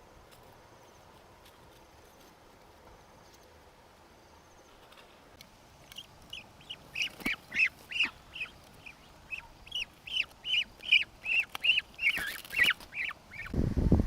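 Ducks calling: a quick run of short calls, about three a second, starting about six seconds in and growing louder. Near the end a loud low rumble cuts in.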